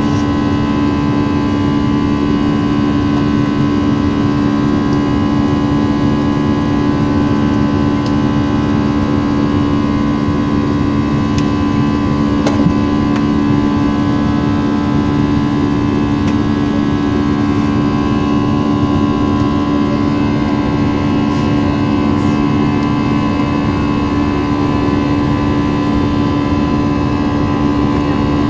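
Airbus A321 cabin noise: a steady, unbroken jet-engine drone with a constant low hum.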